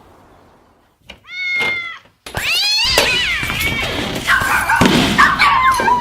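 A cat meowing: one short meow about a second in, then from about two seconds on a loud, unbroken run of wavering, drawn-out yowls.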